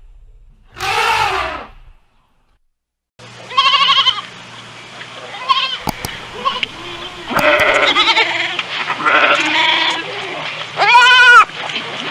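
Repeated bleating from a goat or sheep, each bleat quavering in pitch, over a steady low hum; the last bleat is the loudest. About a second in, before a short gap, there is a brief harsh call from a different animal.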